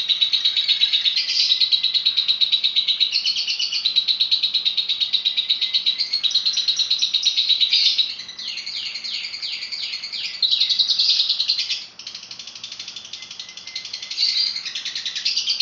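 Lovebird singing continuously in a long, rapid, high chattering trill, with a run of quick downward-sliding notes about eight seconds in.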